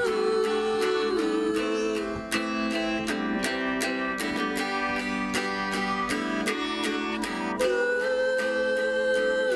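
A small band playing live, with an acoustic guitar strummed in a steady rhythm under sustained melody notes. A long held note sounds at the start and comes back about three-quarters of the way through, with no clear words sung.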